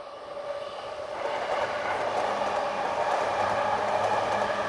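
Electric commuter train coming up and running past on the tracks below: its rail and wheel noise grows over the first second or so, then holds steady and loud, with a low hum joining in.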